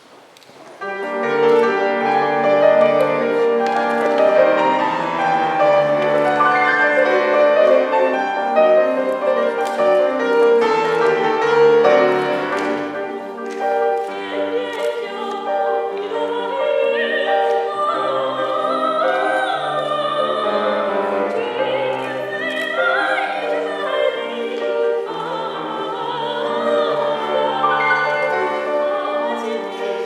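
Solo singer in an operatic style with piano accompaniment, the music starting about a second in; from about halfway the voice sings with a strong vibrato.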